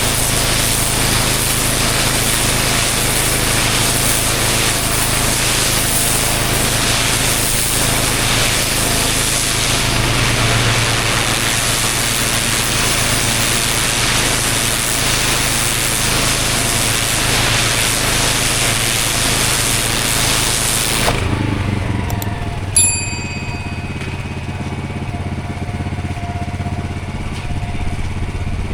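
Pressure washer spraying block paving: a steady high-pressure hiss over the hum of the machine's engine. About 21 seconds in the spray stops suddenly and the engine keeps running on its own, with one sharp click shortly after.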